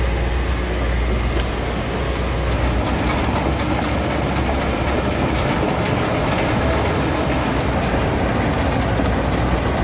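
Steady, loud running noise of heavy vehicles with a rattling clatter; a deep rumble drops away about three seconds in.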